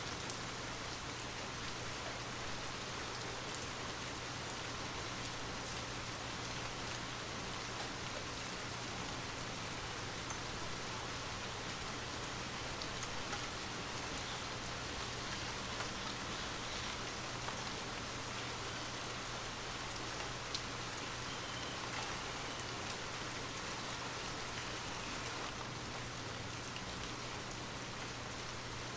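Steady rain falling, with scattered distinct drops ticking through the even hiss and a faint low hum beneath.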